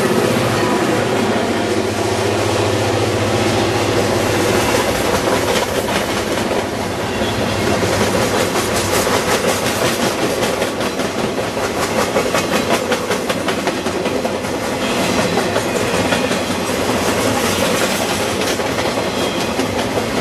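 Freight train rolling past at close range, its wagon wheels clicking steadily over the rail joints.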